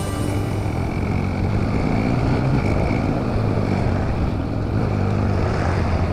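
Motorcycle running steadily on the move: a low engine hum under an even noise.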